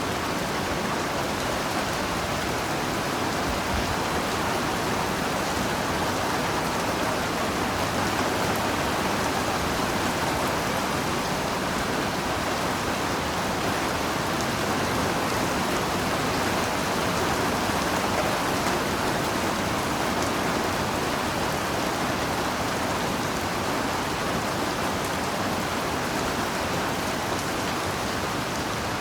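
Steady heavy rain falling, an even dense hiss of drops with no breaks or thunder.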